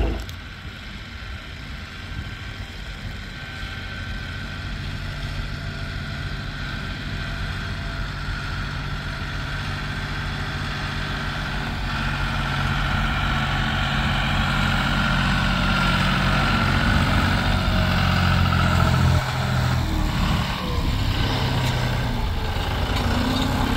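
Diesel engine running steadily, growing gradually louder for about 19 seconds, then dropping off suddenly and running unevenly to the end.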